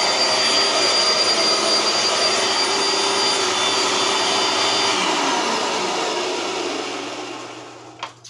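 Dirt Devil Lite vacuum cleaner running steadily with a high whine, then switched off about five seconds in, its motor winding down, the pitch falling and the sound fading out over the next few seconds.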